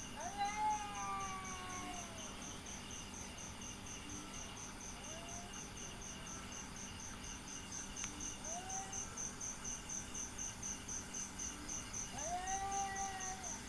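A cat meowing four times: a long, falling meow near the start, two short ones in the middle and another long one near the end. Behind it, an insect chirps steadily at about four pulses a second.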